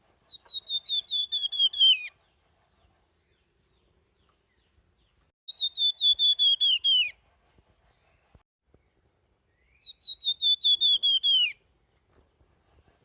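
Flamboyan (golden-bellied gerygone) singing its flute-like 'nyuling' song three times: each phrase is a quick series of clear whistled notes stepping down in pitch, lasting under two seconds, with pauses of about three seconds between.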